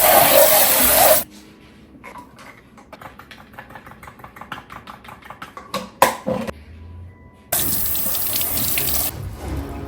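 Kitchen tap running, shut off about a second in and turned on again for about a second and a half near the end. In between come a quick run of light clicks and one sharper knock.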